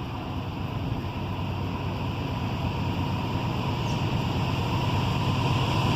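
Norfolk Southern freight train approaching at speed: the diesel locomotives' low rumble grows steadily louder.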